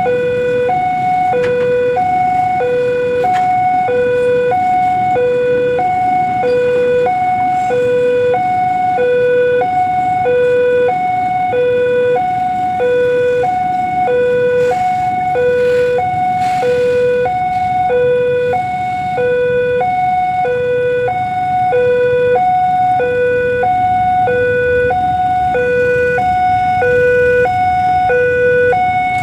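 Railway level-crossing warning alarm sounding: an electronic two-tone signal alternating evenly between a high and a low note, about one high–low cycle every second and a half, steady and unchanging, over a low rumble.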